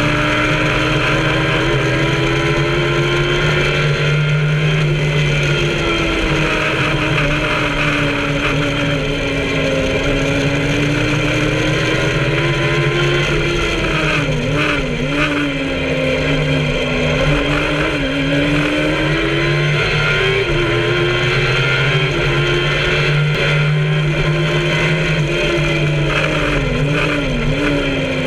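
MK Indy kit car's Kawasaki ZX-10R inline-four motorcycle engine running hard around a race track. Its pitch rises and falls with throttle and gear changes, and dips sharply a few times around the middle and near the end.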